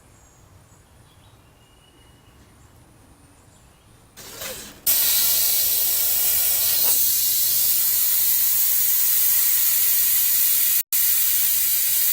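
Dual-action airbrush spraying thinned acrylic paint: a steady, loud hiss of air and paint that starts about five seconds in, with one very short break near the end.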